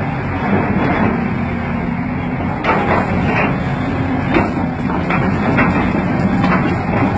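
Excavator diesel engine running steadily, with a series of sharp knocks starting about three seconds in.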